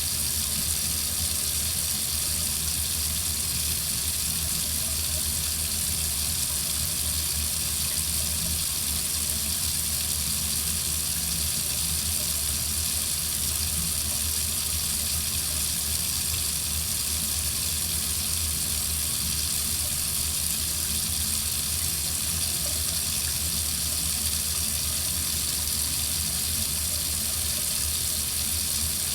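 Water faucet running steadily, a continuous even rush of water.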